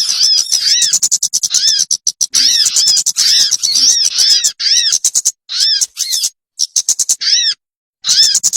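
Recorded bird call used as a trapping lure: rapid, repeated arching chirps over a dry, chattering rattle. The sound cuts off abruptly and restarts several times in the second half, as an edited loop does.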